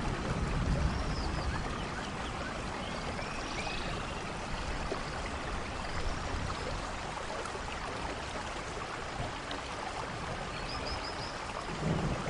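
A steady watery hiss with a few faint high chirps, one of them a quick run of four near the end.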